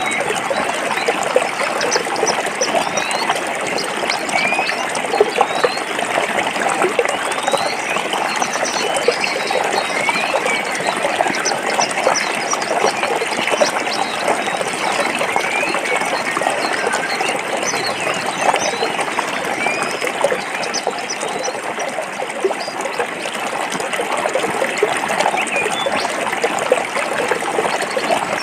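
Forest stream flowing over rocks: a steady rush of water with many short, high, rising plinks scattered through it.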